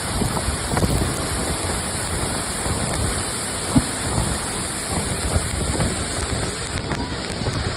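Waterfall about 10 m high and 2 m wide: water falling and splashing into its pool in a steady rush, with one brief knock a little under four seconds in.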